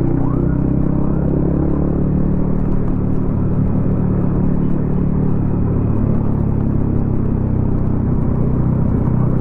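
Yamaha XSR155's single-cylinder engine through a DIY exhaust, running at a steady, low-revving cruise with a slight change in pitch about six seconds in.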